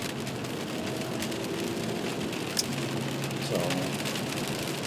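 Rain falling on a car, heard from inside the cabin: a steady hiss with scattered sharp drop ticks over a steady low hum.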